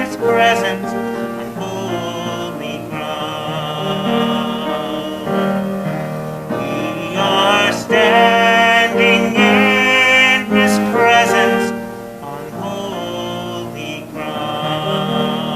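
A singer performing a sacred song with instrumental accompaniment.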